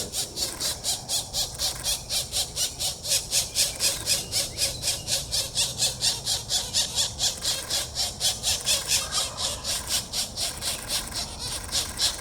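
Pileated woodpecker nestlings begging: a rapid, even series of high, raspy calls, about four to five a second, kept up without a break.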